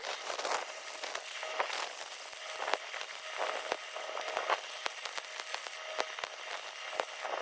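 Electric welding arc crackling and sputtering with irregular pops, over a faint steady hum.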